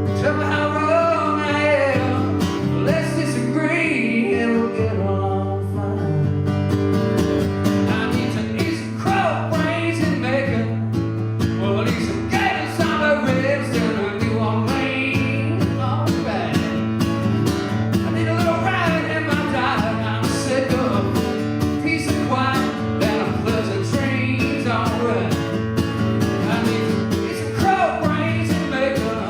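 A live band playing an instrumental passage of a country-rock song: acoustic guitar strumming under held low notes, with a wavering lead melody line over the top.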